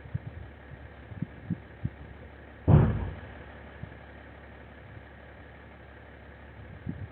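Mercedes-Benz SUV engine idling as it warms up, heard through a security camera's microphone. Short low thumps come now and then, and one loud thud lands about three seconds in.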